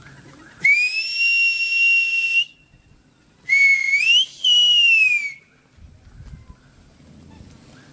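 A person whistling two loud notes to call the wild birds in to be fed. The first rises quickly and is held steady for nearly two seconds; the second rises, breaks briefly, then slides down.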